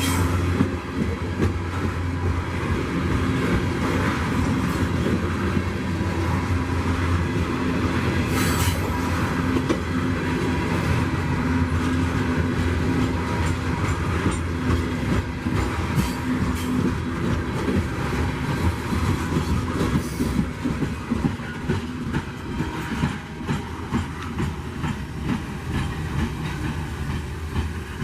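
Freight train rolling past, its wheels clacking rapidly over the rail joints, with a steady low hum that fades out about halfway through.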